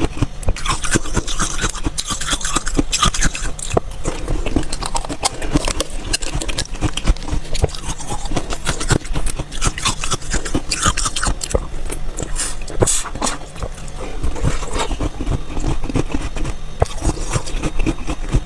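Close-miked chewing of slushy shaved ice, a dense, continuous run of wet crunches and crackles.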